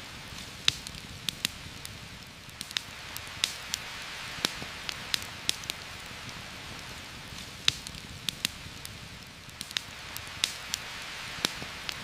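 Steady rain falling on forest leaves, with a campfire crackling in irregular sharp pops over it.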